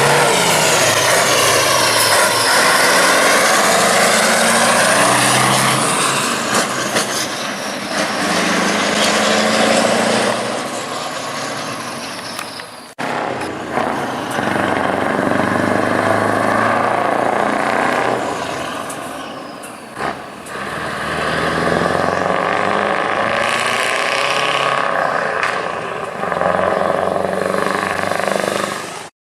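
Heavy trucks' engines running and revving as they drive past, the pitch rising and falling. The sound breaks off abruptly twice, about halfway through and again about two-thirds of the way through.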